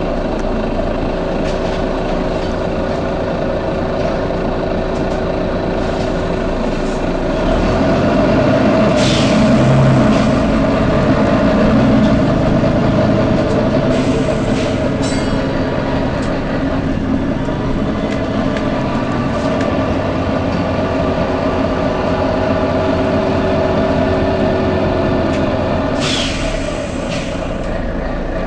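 Volvo B9TL bus running with a steady diesel drone, and two short, sharp 'tsh' hisses of compressed air from its pneumatic system: one about nine seconds in and one near the end.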